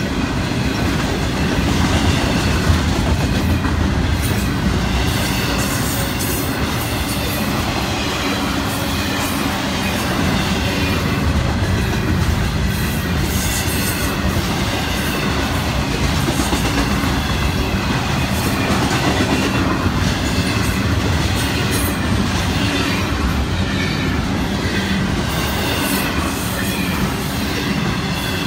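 Intermodal freight cars (double-stack container well cars and trailer flatcars) rolling steadily past: a constant rumble of steel wheels on rail with scattered clicks and faint wheel squeal.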